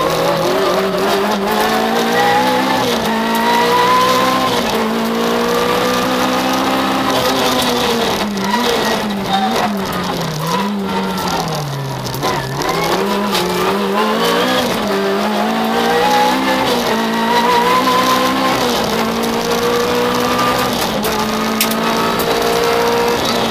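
A Citroën Saxo VTS rally car's four-cylinder engine heard from inside the cabin, driven hard through the gears. Its pitch climbs again and again and falls back at each shift, with a few sharp drops about halfway through.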